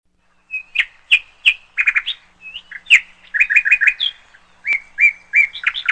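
Small bird chirping: many short, sharp chirps, some coming in quick runs of three or four.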